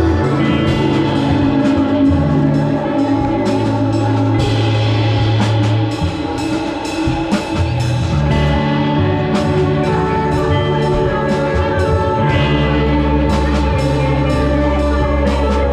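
Live rock band playing an instrumental passage: electric guitar over held bass notes that change every second or two, with a drum kit hitting steadily throughout.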